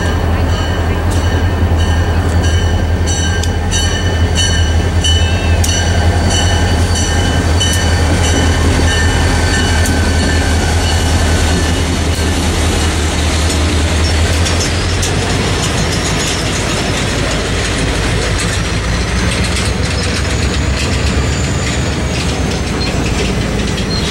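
EMD SD40-2 diesel locomotive passing close by. Its engine's deep drone fades about 14 seconds in, and the passenger cars behind it keep rolling past with steady wheel-on-rail noise. A high ringing, struck at even intervals, sounds over the first half.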